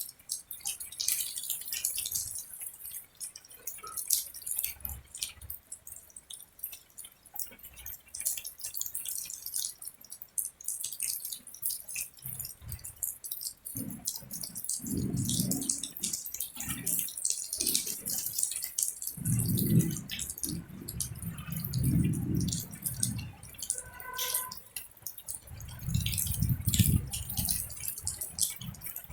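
Rain falling, a dense run of drops and drips ticking without a break. Low rumbling swells come and go through the second half, and a brief pitched tone sounds about three-quarters of the way through.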